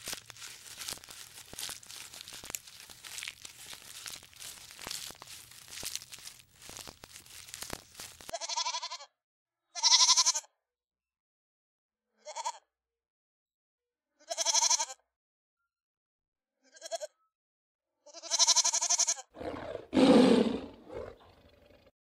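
A dense crackling, crunching noise for the first eight seconds, then a series of about six short pitched animal calls, each under a second, with dead silence between them, ending with a lower, rougher call near the end.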